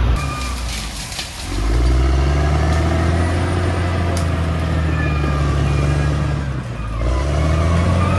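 Caterpillar D6R XL bulldozer's diesel engine working under load, easing off about a second in and again near the end and picking back up each time, with a faint high whine over the engine.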